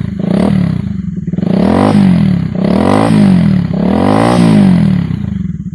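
Bajaj Pulsar 200NS single-cylinder engine revved through an aftermarket underbelly sports exhaust, the pitch rising and falling about four times in quick blips.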